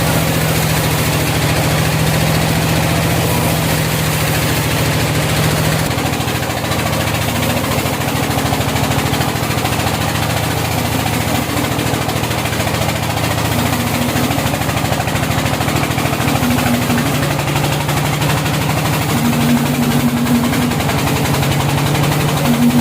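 Sawmill engine running steadily under load. Its note shifts about six seconds in and again in the last few seconds.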